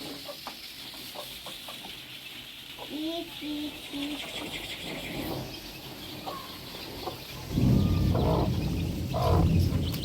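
Chickens clucking in short calls over a steady hiss of heavy rain. A louder low sound comes in about three-quarters of the way through.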